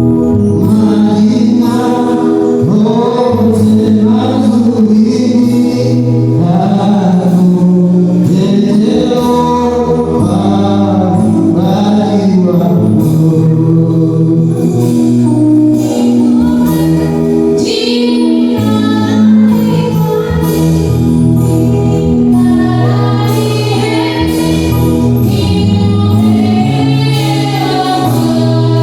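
Gospel music: a choir singing over a steady, sustained bass line.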